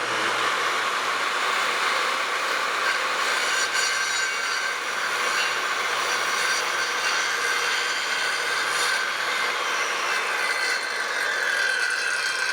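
Handheld circular saw (Skilsaw) running steadily as it cuts a long cut through a wooden rafter for a bird's mouth, its motor whine holding a steady pitch throughout.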